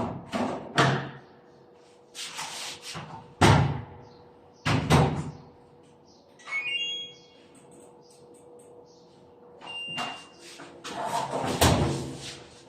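A series of household bangs and knocks, like doors or lids being shut, the loudest about three and a half and five seconds in. Around the middle comes a short run of electronic beeps, and a single brief tone follows near ten seconds.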